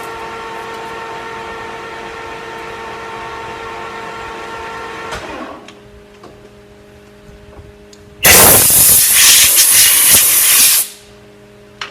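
Metal lathe running with a steady whine that drops away about five and a half seconds in, leaving a faint hum. About eight seconds in, a loud hiss lasting about two and a half seconds cuts in and stops abruptly, and a short click follows near the end.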